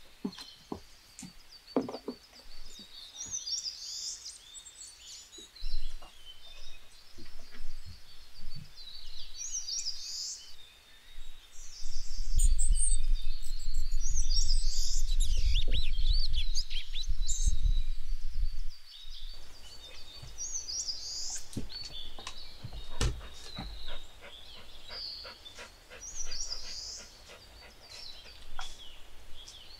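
Small birds chirping and singing in short high phrases every couple of seconds. For several seconds in the middle a loud low rumble covers everything, then stops abruptly.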